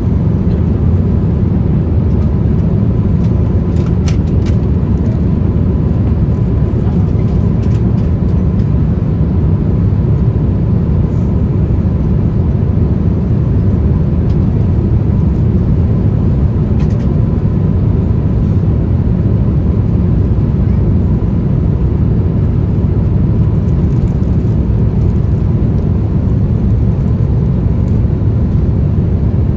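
Steady low rumble of Airbus A350-1000 cabin noise in flight: airflow and engine drone with no change in level, and a faint steady whine above it.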